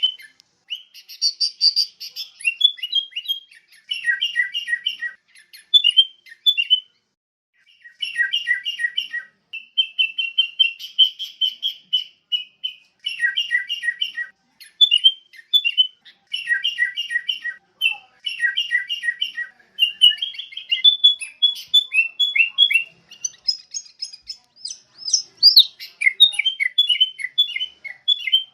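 Sooty-headed bulbul (kutilang) singing: phrases of quick, repeated chirping notes a second or two long, separated by short pauses, with a longer pause about seven seconds in.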